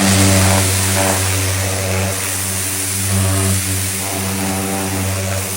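Pressure washer running steadily with a constant hum, and the hiss of its high-pressure water jet spraying against a car.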